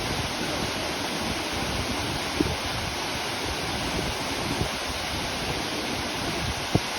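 Waterfall: a steady rush of falling water, with two brief louder thumps, one about two and a half seconds in and one near the end.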